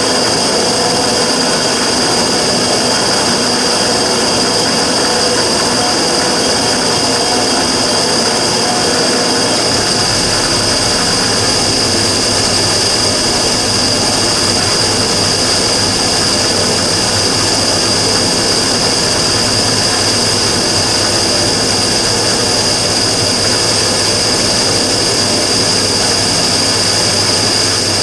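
Immersion tube gas burner running with a steady noise and a strong, steady high-pitched tone over it, an abnormal noise according to its owner. About ten seconds in, a low hum underneath grows stronger.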